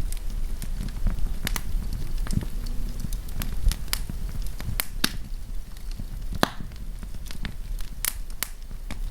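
Wood campfire burning and crackling, with irregular sharp pops and snaps over a low rumble of flame.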